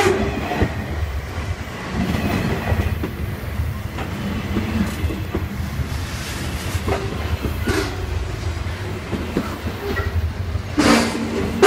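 Long freight train's wagons rolling past with a steady low rumble and wheels clattering over the rails, with brief sharper bursts about 7½ and 11 seconds in.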